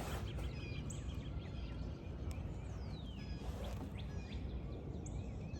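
Small birds chirping and calling in short rising and falling notes, scattered throughout, over a steady low rumble of outdoor background noise.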